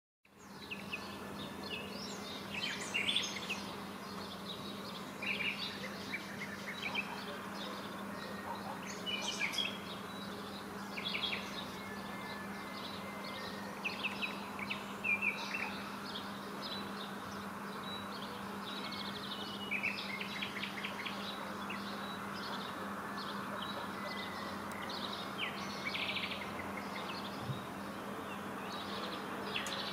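Wild birds chirping and singing on and off in short phrases, over a steady low hum and a soft background hiss.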